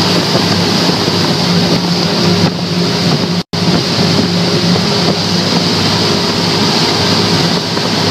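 Twin Yamaha 350 V8 four-stroke outboards running steadily with the boat under way, a steady engine drone under wind on the microphone. The sound cuts out for a split second about three and a half seconds in.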